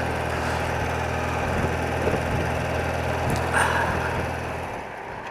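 Old BMW motorcycle engine running at a steady cruise, an even low hum over a hiss of wind and road noise, dropping away near the end.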